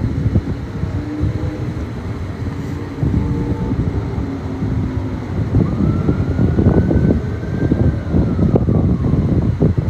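Street traffic rumble with wind buffeting the phone's microphone. From about six seconds in, a faint tone rises, holds and falls, like a distant siren wail.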